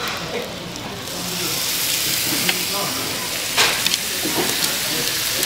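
Food sizzling on a hot griddle. The sizzle swells about a second in, then holds steady, with a few sharp taps scattered through it.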